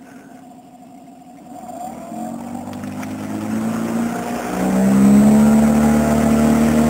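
Outboard motor on an inflatable boat throttling up from a low idle: from about a second and a half in it rises in pitch and loudness, then runs steadily at high revs from about five seconds in.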